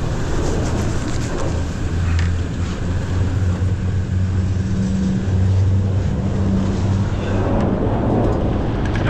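An engine running steadily at an even low pitch, under a constant rushing noise.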